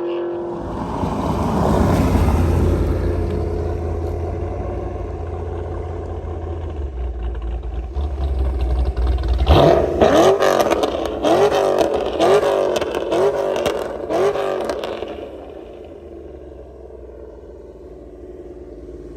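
Cammed 5.3 V8 pickup truck with long-tube headers driven hard: a heavy exhaust rumble builds, then for about five seconds it turns choppy and crackly with the pitch rising and falling over and over, before dropping back to a lower, steadier rumble near the end.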